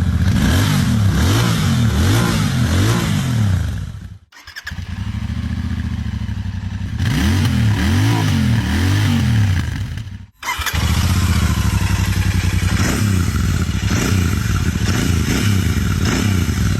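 Royal Enfield motorcycle exhausts in three back-to-back clips with abrupt cuts about four and ten seconds in. In the first clip the engine is blipped up and down over and over. The second idles, then revs several times in a row. The third runs at a steady idle with an even beat.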